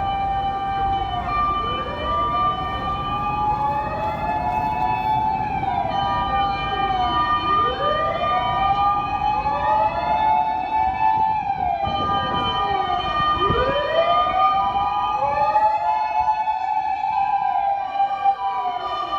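Sirens of several Japanese emergency vehicles on an emergency run: wailing sirens rising and falling over each other every few seconds, together with a two-tone siren switching between a higher and a lower note, over the rumble of traffic.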